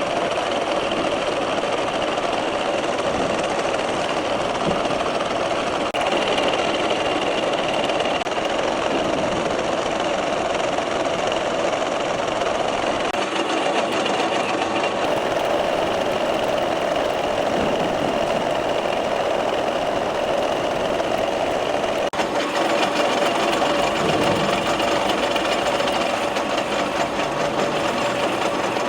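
Metalworking machine tool running steadily under cut, a continuous mechanical machining noise.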